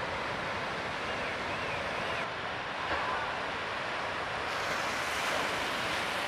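Ocean surf breaking on the reef, a steady rush of waves, with a few faint high chirps about a second in.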